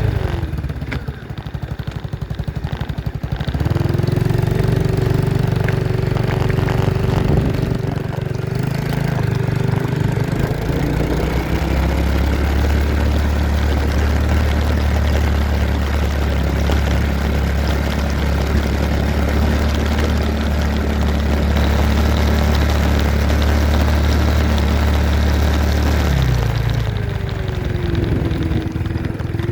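Dirt bike engine running, its pitch climbing about three and a half seconds in, holding fairly steady with small changes in revs, then falling back near the end.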